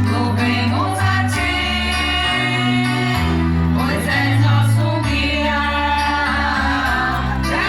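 Live church worship music played through the PA system: voices singing a melody over sustained bass notes that change about every second.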